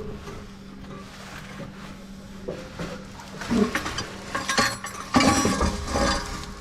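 Metal clinks and knocks from loose exhaust pipe and tools being handled, scattered at first and busier near the end, over a steady low hum.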